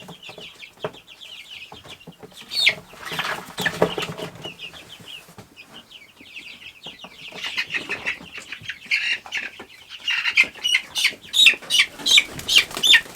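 Young meat chickens peeping, many rapid short cheeps at once, with wings flapping and birds scrabbling as they are caught and handled. The peeping and flapping grow louder and busier over the last few seconds.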